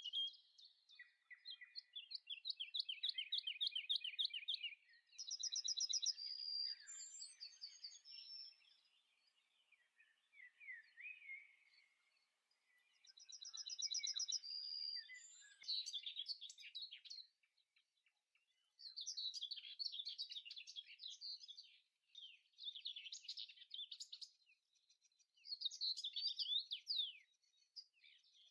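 Birdsong: high-pitched phrases of quick trills and chirps, each one to three seconds long, with short pauses between them.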